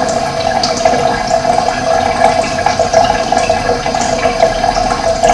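Running water flowing steadily, with short high bird chirps now and then over it.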